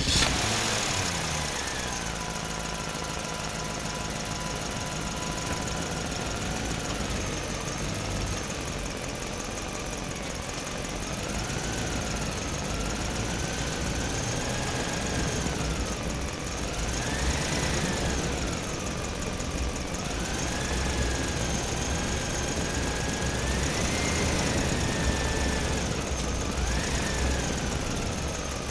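Small electric motor and gearbox of a homemade RC toy road roller running, with a whine whose pitch rises and falls several times as it speeds up and slows down over a steady gear rattle.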